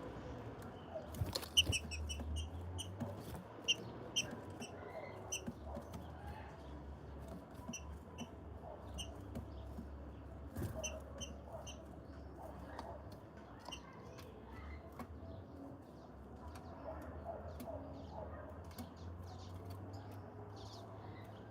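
Small birds giving short, high chirps, often two or three in quick succession, with scattered sharp clicks over a steady low hum.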